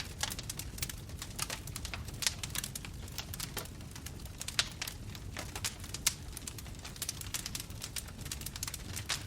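Bonfire burning: wood crackling and popping in irregular sharp snaps, a few louder pops among them, over a low steady rumble of the flames.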